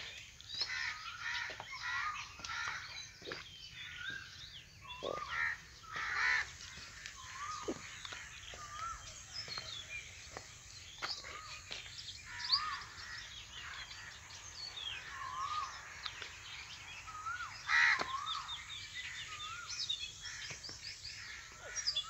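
Many wild birds calling and chirping at once in a morning chorus, short wavering calls overlapping throughout, with a few louder calls around five to six seconds in and again near eighteen seconds.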